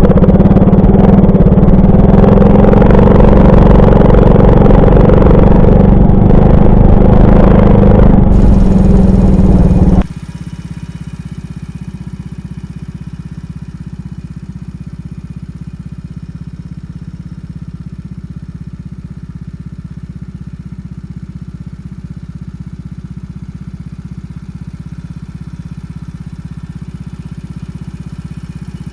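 Alpha 110 moped's 110 cc single-cylinder four-stroke engine running loudly and steadily, then dropping suddenly to a much quieter steady run about ten seconds in.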